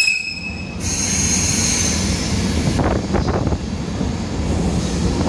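JR East E235 series 1000 electric train pulling out of the station with a steady running rumble. It opens with a short high tone, and a high wheel squeal with hiss comes from about one to two seconds in.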